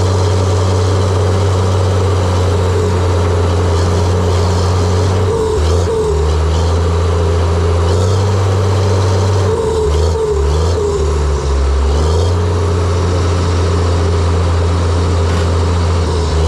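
John Deere 700J-II crawler dozer's diesel engine running steadily, with a whine above the engine hum; the engine note dips briefly about five seconds in and again around ten to twelve seconds in, as if the engine is taking load.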